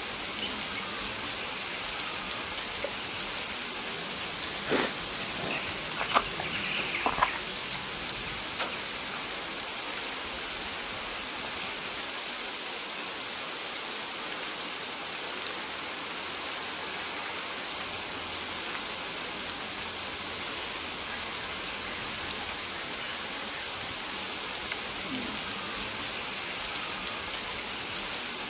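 Steady rain falling, an even hiss of drops on the surroundings, with a few sharp knocks a little under halfway through.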